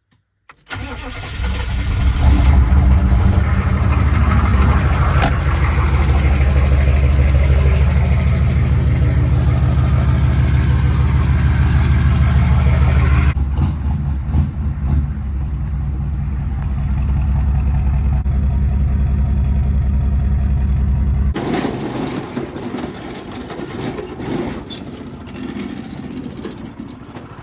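A car engine starts and runs steadily, with a slight change in its note about 13 s in. About 21 s in the engine sound drops away and a quieter, rougher noise takes over.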